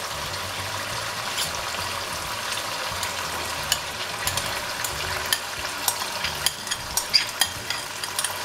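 Chicken liver masala sizzling steadily in hot oil in a pan, with sharp pops and crackles that become more frequent about halfway through as whisked yogurt is poured in and spatters.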